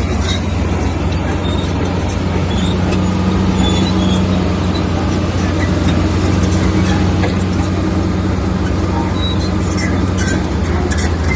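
Heavy diesel engine of a bulldozer running steadily under load, with scattered short clicks and knocks over it.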